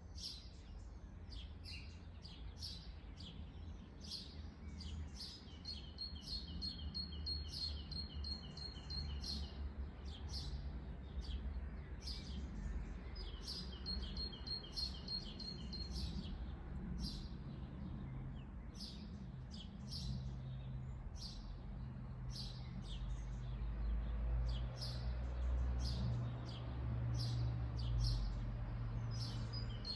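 Several wild birds chirping in quick, overlapping calls, with a rapid trill of evenly repeated notes recurring for a few seconds at a time. Underneath is a low steady rumble that grows louder in the second half.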